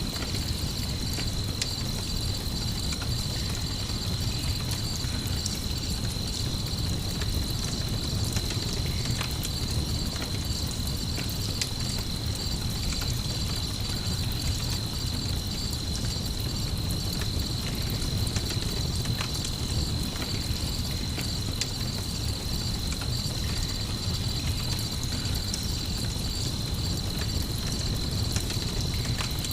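Ambient campfire-and-night mix: crickets chirping steadily over a low rumble, with scattered small crackles of the fire.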